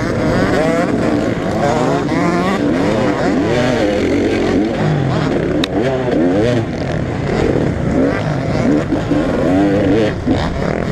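Several motocross bikes racing, their engines revving up and down over and over as they accelerate and back off around the track, with the revs of different bikes overlapping.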